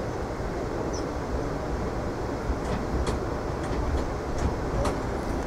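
Passenger train running, heard from inside the car: a steady rumble with a few faint clicks.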